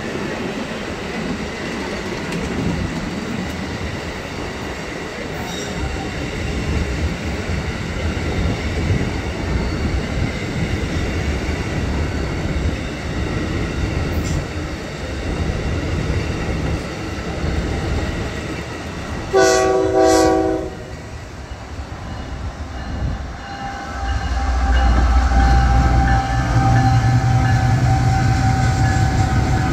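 Amtrak passenger cars rolling past with a steady rumble of wheels on rail. A train horn sounds briefly about two-thirds through. Near the end, CSX diesel locomotives pass with a louder, low engine drone.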